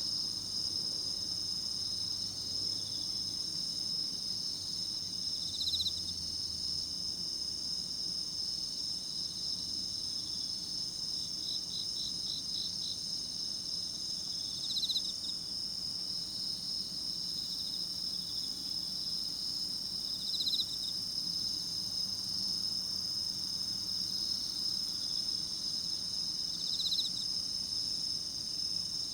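A chorus of autumn crickets and other singing insects: steady high-pitched trilling, with a louder short chirp every few seconds and a quick run of pulsed chirps near the middle.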